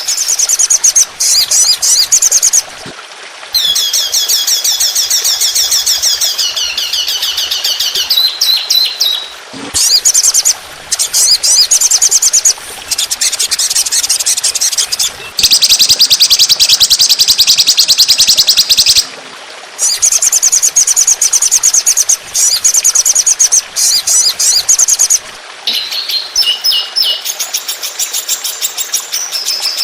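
Recorded songbird song for bird training: runs of very fast, high, rapid-fire trills, each lasting a few seconds, some drifting downward in pitch, with short breaks between them.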